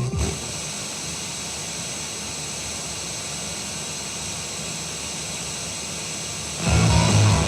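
Steady, even hiss played through the Technics SA-5500 amplifier with no programme on it. Music with a guitar comes in sharply about a second before the end.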